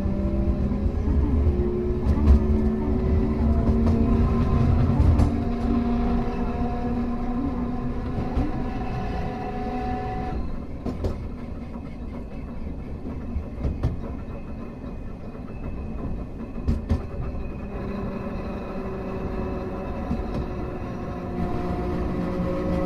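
Hankai Tramway car 351 running: the traction motors' whine climbs slightly as the tram accelerates and cuts off about ten seconds in. The tram then coasts with a few clacks of the wheels over rail joints, and the motor whine comes back and rises again a few seconds before the end as power is reapplied.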